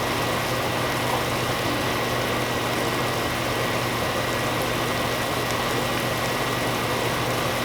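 Chicken strips simmering in broth in a pan, a steady sizzle over a constant low hum.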